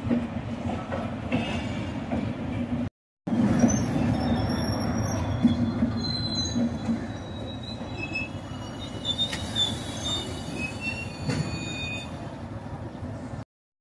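Shatabdi Express chair-car coaches rolling past, a steady rumble of wheels on rail with thin high-pitched wheel squeals coming and going through the middle stretch.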